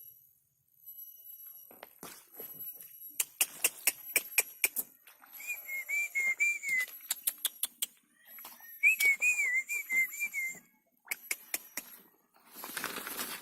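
A person whistling a short warbling phrase twice, amid a run of sharp clicks. It is a sound cue given so the caged bird grows used to its keeper and is not startled.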